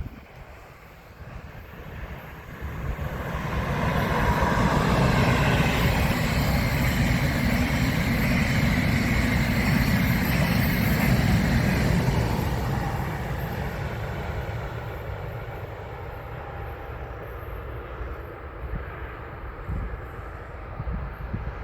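A train passing by on the line: the rumble and rolling noise of the wheels swell over about two seconds, stay loud for about eight seconds, then fade away slowly.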